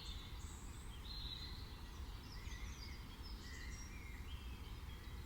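Small songbirds singing: a scatter of short chirps and trills from more than one bird, over a steady low rumble of outdoor background noise.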